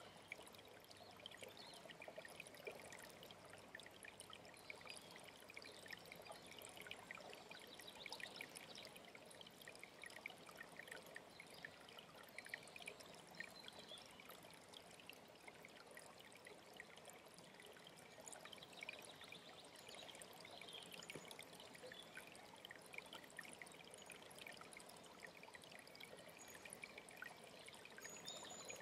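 A mountain stream running: faint, steady splashing and trickling water.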